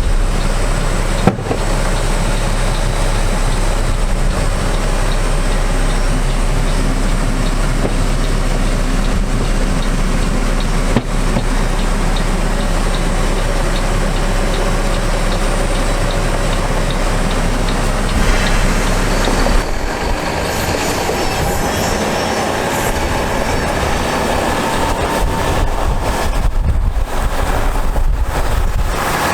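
A heavy truck's Mack MP7 diesel engine running, a loud steady rumble. About twenty seconds in, the deepest part of the rumble drops away and the sound changes.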